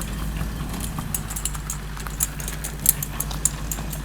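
Tractor engine running steadily as it comes to tow the car, with scattered sharp clicks and rattles over the hum.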